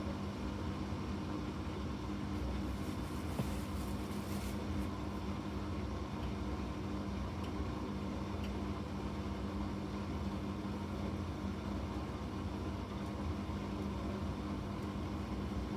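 Bosch washing machine running steadily, a constant motor hum with two steady tones over an even rushing noise, with some faint higher rattling about three to four seconds in.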